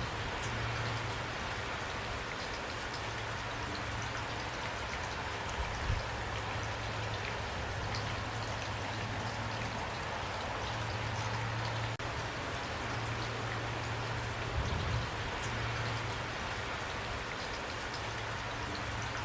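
Steady rain falling, with separate drops clicking close by. There are a couple of brief low thumps, about six seconds in and again near fifteen seconds.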